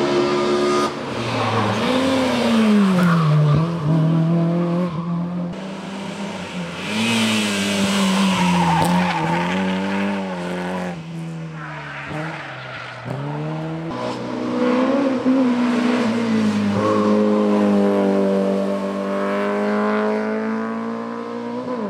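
Race car engine on a hill-climb course, revving hard and changing gear: the pitch climbs, drops suddenly, and climbs again several times.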